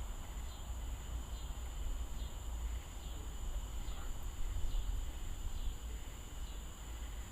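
Night insects calling: a steady high-pitched drone with a short chirp about once a second, over a steady low rumble.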